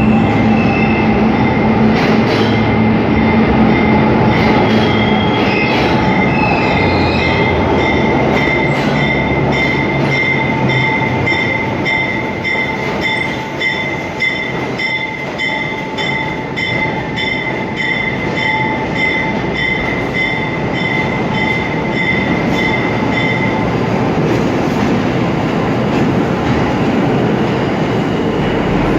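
Subway work train locomotive and its cars rolling through an underground station, with a steady high squeal from the wheels and a regular rail clatter. A low engine hum fades out after the first few seconds, and the squeal dies away about five seconds before the end, leaving the rumble of the train.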